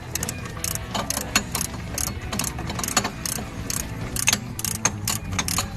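Irregular metallic clicks and clinks of hand tools and loose parts being handled on a 4D56 diesel's cylinder head and rocker arm assembly, over a steady low hum.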